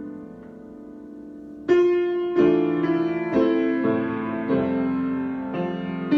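Solo piano improvisation. A soft chord is held, then from about two seconds in louder chords are struck roughly once a second, each left to ring.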